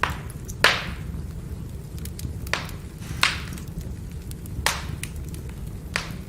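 Firewood burning and crackling: a steady low rumble with small ticks and about six sharp pops, the loudest a little over half a second in.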